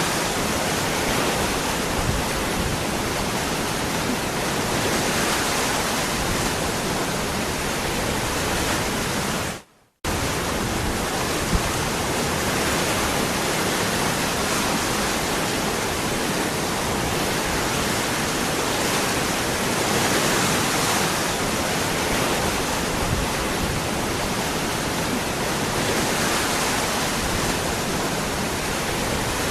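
Waterfall rushing steadily. About ten seconds in, it fades out for a moment and cuts straight back in.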